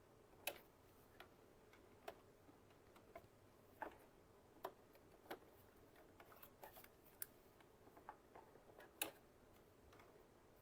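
Near silence broken by scattered faint, irregular clicks and taps from handling pins, fabric and the sewing machine; the sharpest come about half a second in and near nine seconds.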